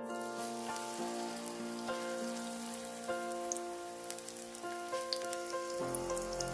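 Canned-tuna patty mixture sizzling in hot grapeseed oil on an electric griddle: a steady frying hiss with scattered crackles.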